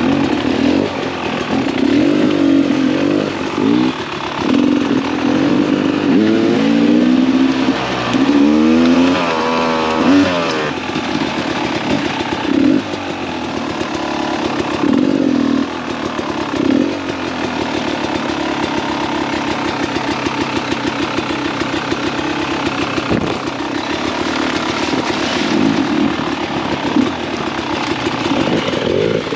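Two-stroke engine of a 2017 Beta 300RR enduro dirt bike being ridden, its revs rising and falling sharply between about six and ten seconds in, then running more steadily.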